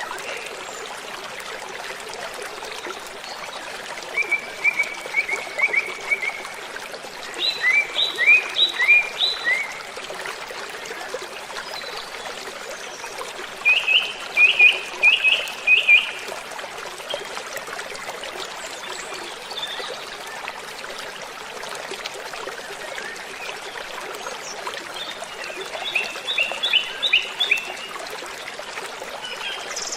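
Waterfall rushing steadily, with a bird singing over it in four short phrases of quick repeated high notes, the loudest about halfway through.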